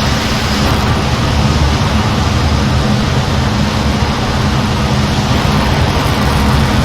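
Steady jet aircraft noise from an F-15, engine and rushing air held at constant power without change.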